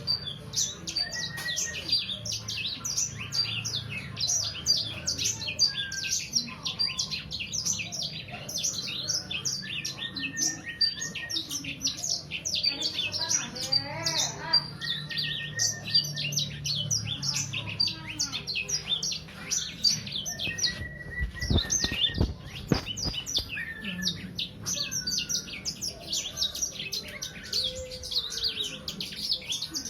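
A young songbird, about three months old, singing a continuous rapid stream of high chirps and trills mixed with short whistled notes, without pause. A few low knocks come about two-thirds of the way in.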